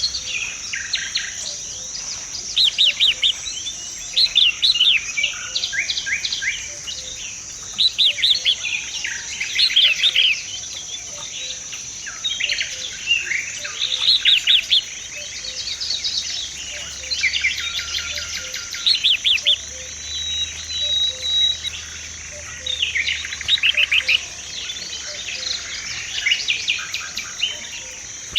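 Songbirds singing short, repeated chirping and trilling phrases every second or two, over a steady high-pitched buzz.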